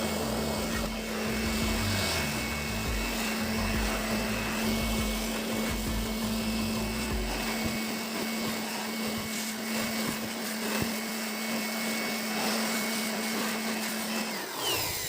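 Compressed air blowing through a tractor's dry primary air filter element to clean it, a steady loud hiss with a motor hum underneath that stops shortly before the end.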